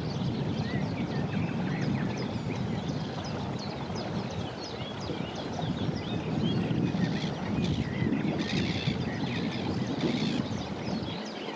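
Many small birds singing and chirping together in a morning chorus, with a steady low rumble beneath them.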